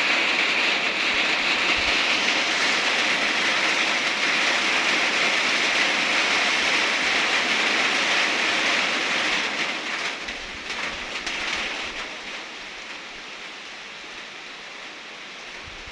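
Heavy rain falling in a steady, even hiss that eases off noticeably about ten seconds in and continues more lightly.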